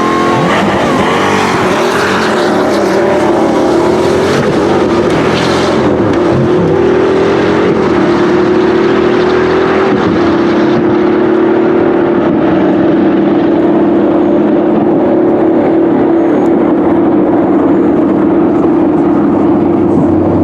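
Supercar engine under power. Its pitch rises and wavers through the first few seconds, then settles into a loud, steady drone at nearly constant engine speed that climbs slowly to the end.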